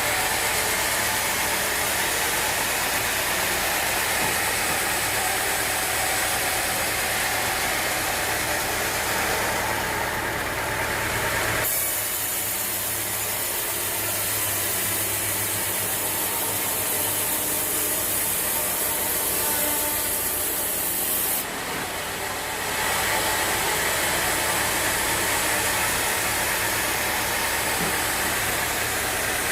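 Sawmill machinery running steadily, a constant engine hum under a hissing saw noise. The sound changes abruptly about twelve seconds in and changes back about ten seconds later.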